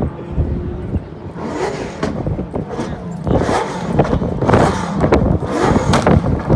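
Vauxhall Firenza V8 rally car's V8 engine revving loudly, its pitch rising and falling several times.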